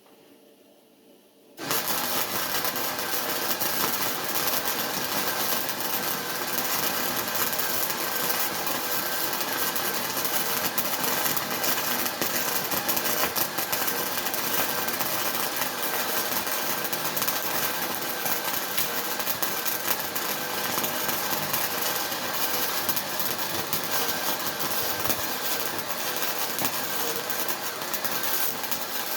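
Arc welding: after a short pause the arc strikes up about a second and a half in and then runs as a steady, dense crackling hiss without a break.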